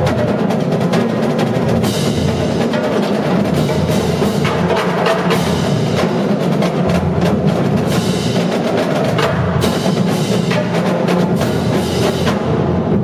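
Marching drumline playing: fast, dense drum strokes over pounding bass drums, with a few loud bright crashes along the way.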